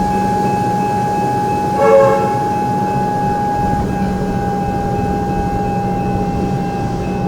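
Electric suburban train running with a steady electrical whine and hum, sounding one short horn toot about two seconds in.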